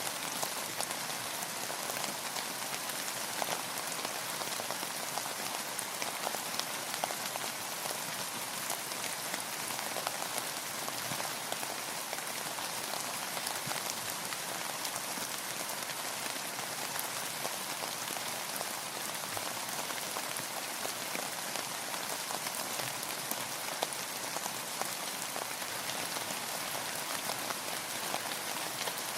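Steady rain falling on a surface, an even hiss dense with small drop ticks.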